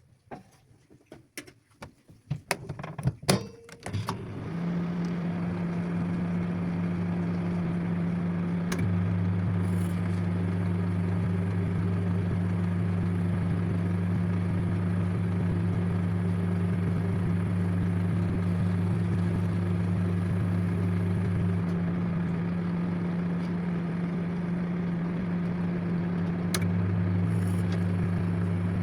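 Microwave oven being set going with a run of clicks and knocks, then starting up about four seconds in and running with a steady, loud hum. Its deeper tone drops out and comes back a few times.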